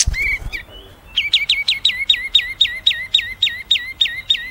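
A songbird, recorded for bird mastering, calling a few short notes and then, from about a second in, a fast even series of down-slurred whistled notes, about four a second.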